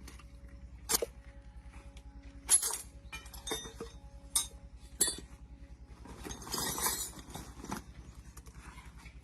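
Sharp metallic clinks of tools and parts, five in the first five seconds, with a short scraping rustle a little after six seconds, over the steady low pulsing of an idling engine.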